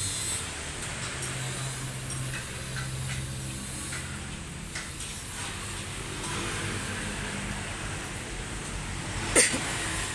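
Steady low mechanical hum with a few light ticks, and one sharp knock about nine seconds in.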